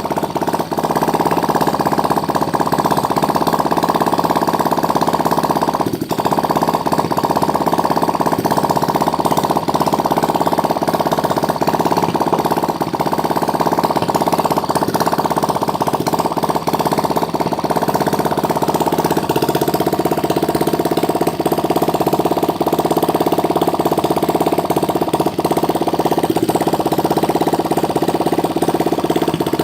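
Water-cooled 175cc engine running steadily at an even speed.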